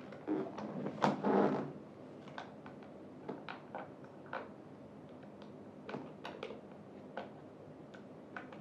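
Screws and a small hand tool clicking and clattering as a chair armrest is screwed onto the seat. The clatter is busiest in the first two seconds, then single clicks follow at scattered moments.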